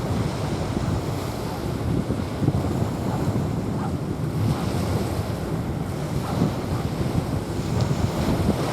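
Sea waves washing onto a sandy beach, mixed with wind buffeting the microphone as a steady, gusting low rumble.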